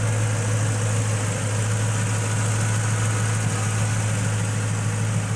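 Ford Crown Victoria Police Interceptor's 4.6-litre V8 idling steadily, through an exhaust with the mufflers deleted and the catalytic converters kept.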